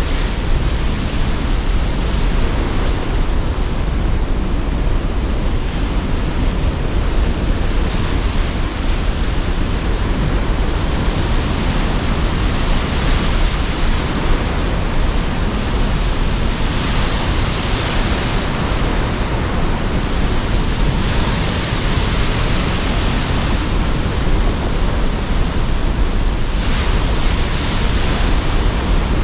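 Sea surf with strong wind: a steady rushing noise over a heavy low rumble, with waves washing in as swells of hiss every few seconds.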